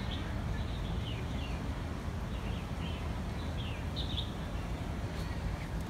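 Small birds chirping in short, falling notes, several times, over a steady low rumble.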